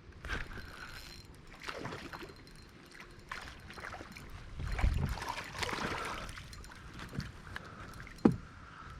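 Water splashing and sloshing around a kayak, with scattered knocks on the hull; the loudest is a single sharp knock near the end.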